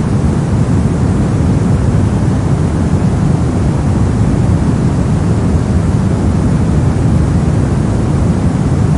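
Steady brown noise: an even, deep hiss with most of its energy in the low end, unchanging throughout.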